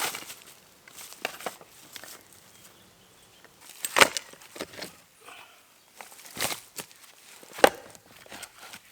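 Wood being broken or chopped by hand: irregular sharp cracks and knocks, three of them much louder than the rest, about two seconds apart, with smaller snaps between them.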